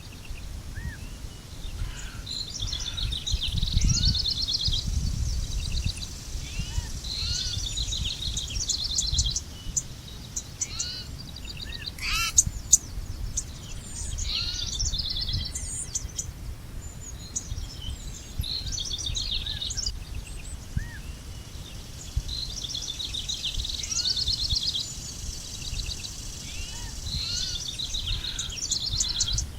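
Several songbirds singing in repeated trilling phrases, with short rising chirps in between, over a low steady rumble of background noise. A single sharp click about twelve seconds in.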